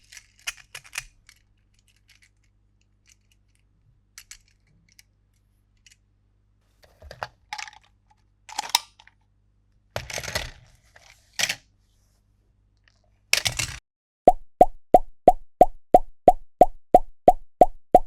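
Small plastic clicks and short rustles of toy and packaging handling, then, about two thirds of the way in, a steady run of identical short pitched plops, about three a second.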